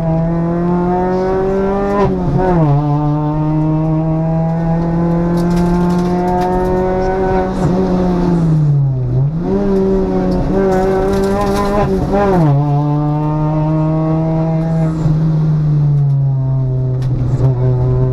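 Citroën DS3 R1 rally car's 1.6-litre four-cylinder engine, heard from inside the cabin and pulling hard at high revs along a special stage. Its pitch falls sharply at gear changes about two and a half, twelve and a half and sixteen seconds in, and dips and climbs back around nine seconds in.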